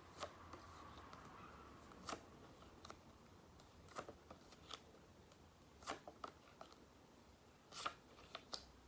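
Flashcards being turned over: a faint paper flick about every two seconds, with near silence between.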